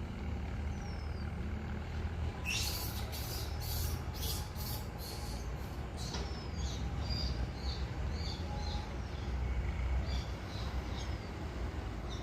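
Outdoor background of a steady low traffic rumble, with small birds chirping in short high notes through the second half. A quick run of sharp high-pitched rattling clicks comes from about two and a half seconds in and lasts a few seconds.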